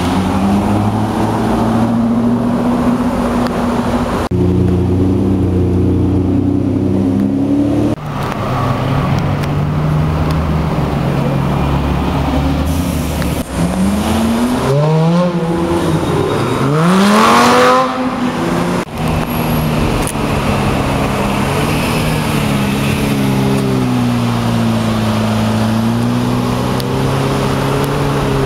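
Supercar engines in a run of short edited clips: steady engine notes, then about halfway through a car accelerating hard, its pitch rising twice as it shifts up a gear. The second rise is the loudest moment before the sound cuts to another steadily running car.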